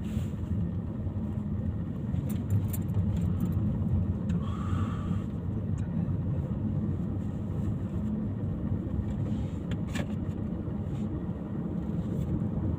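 Car driving, with a steady low rumble of engine and road noise and a few faint clicks.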